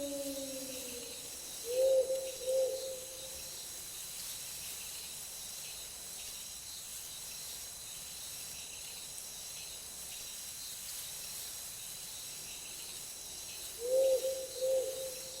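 Night forest ambience: insects trilling steadily, with an owl hooting twice about two seconds in and twice again near the end. A long falling howl fades out in the first second.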